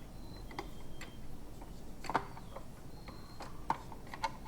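Light, irregular clicks and knocks of metal and hard plastic: a stand mixer's bowl and spiral dough hook being handled while the mixer is stopped. The two sharpest knocks come about two seconds in and again near the end.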